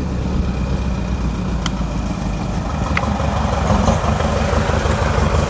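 An engine running steadily at idle, a low even hum like a tractor's, with two sharp clicks and a rougher rushing noise building in the second half.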